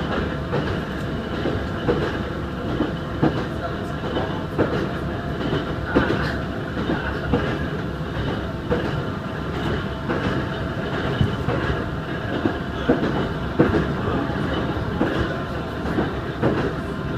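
Ohmi Railway 220 series electric railcar heard from inside, running at a steady speed. The steady whine of its nose-suspended (tsurikake) traction motors and gears sits under the running noise, and the wheels clack over rail joints about once a second.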